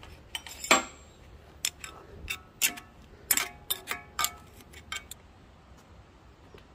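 An irregular run of about a dozen sharp metal knocks and clinks, some ringing briefly, as metal parts of the wood lathe are tapped and worked to free a part that has been pushed in under load. The knocks stop about five seconds in.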